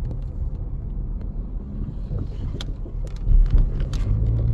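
Low, steady road rumble of a moving car heard from inside the cabin, with a louder thump a little over three seconds in, like the car going over a bump.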